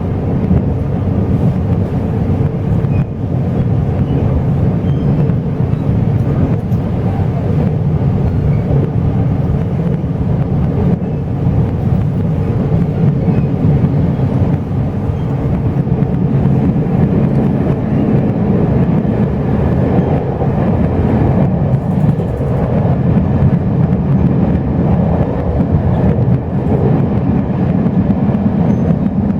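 Chu-Kuang express passenger train in motion, heard from inside the carriage: a steady rumble of wheels on rails and the rattling car body.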